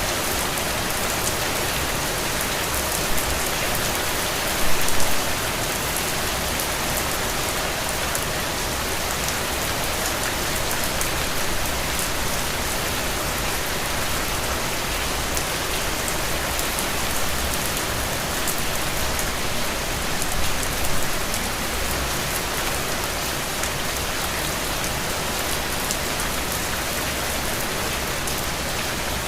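Steady rain falling, an even hiss with fine patter of drops, briefly louder twice, about five seconds in and again around twenty seconds in.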